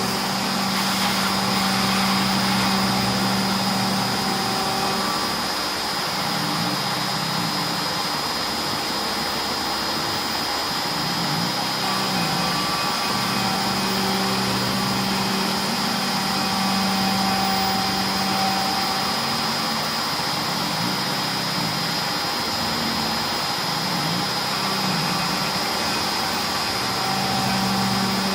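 CNC router run: the inverter-driven spindle gives a steady high whine over a running hiss, while the stepper motors moving the gantry add a lower hum that starts, stops and slides up and down in pitch every few seconds.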